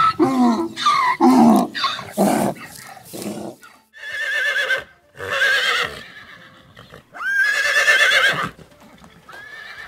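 A donkey braying in repeated falling calls. From about four seconds in, a horse whinnies several times, each whinny with a quavering pitch.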